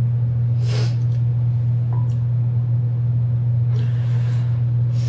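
A person slurping instant ramen noodles, with short noisy slurps about a second in and again near the end, over a loud steady low hum.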